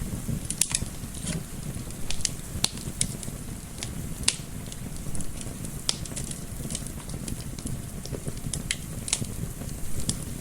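Wood fire in a fireplace crackling, with irregular sharp pops and snaps several times a second over a steady low rumble.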